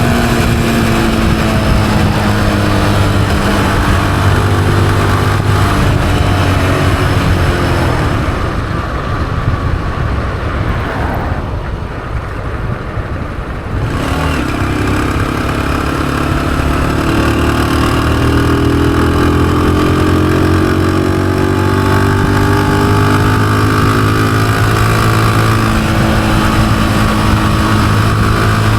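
Honda CG125's single-cylinder four-stroke engine under way: its note falls as the bike slows, drops low and quiet for a few seconds about halfway through, then rises again as it accelerates and settles into a steady cruise.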